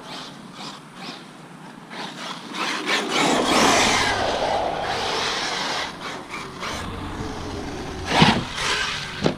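Arrma Mojave 6S RC truck driving over grass: its brushless motor and steel pinion-and-spur gears whine under a noisy rush of tyres and grass, the whine falling in pitch as the truck slows. Two sharp thumps near the end.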